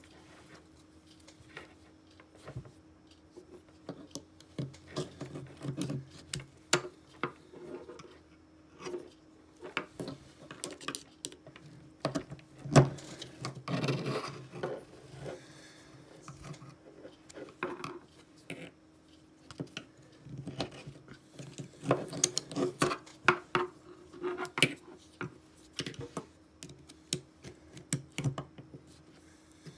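Small metal objects and hand tools handled on a work surface during a knife repair: irregular clicks, taps and short scrapes, busiest about halfway through and again near the end, over a faint steady hum.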